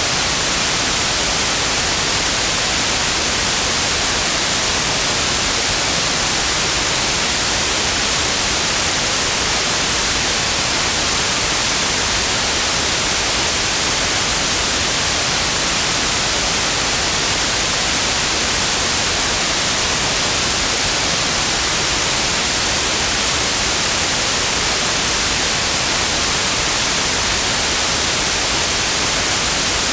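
Steady synthetic white noise: an even, unchanging hiss across the whole range, strongest in the highs.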